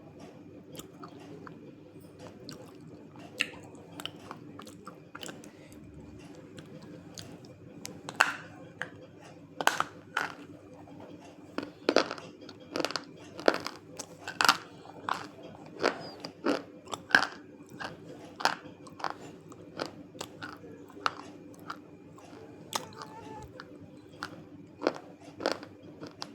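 Person biting and chewing crunchy chunks of eating clay (multani mitti), in sharp, irregular crunches. The crunches are faint at first and become louder about eight seconds in, at one or two a second, over a steady low hum.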